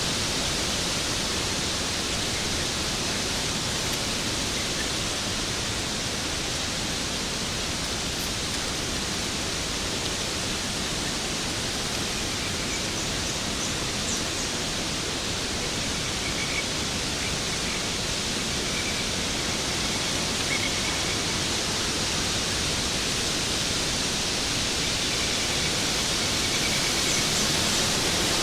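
Waterfall pouring steadily: an even, unbroken rush of falling water with a hissy, bright edge.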